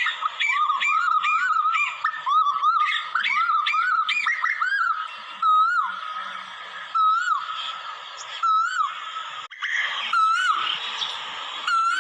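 Asian koel calling: a rapid run of short, arched, whistled notes for the first five seconds, then single notes repeated about every second and a half.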